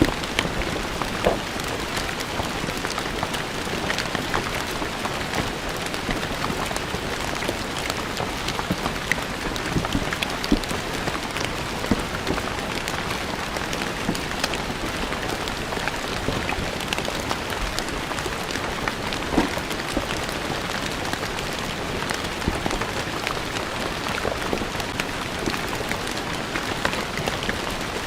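Steady rain falling on stone paving, an even hiss dotted with many sharp individual drop splashes.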